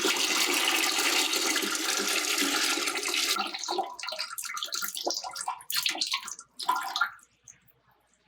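Water rushing steadily for about three and a half seconds, then breaking into irregular splashes and sloshes that die out near the end.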